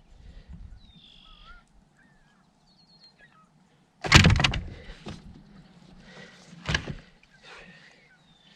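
Two loud knocks against a kayak hull, one about four seconds in and a sharper one near seven seconds, with small birds chirping faintly.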